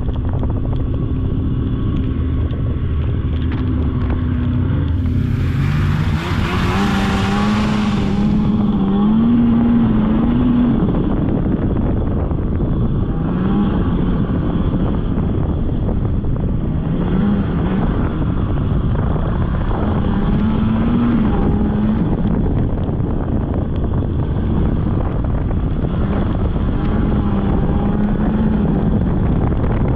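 Polaris snowmobile engine running under way on a trail, its pitch rising and falling with the throttle over a heavy rumble. A loud rush of hiss joins it for about three seconds, from about five seconds in.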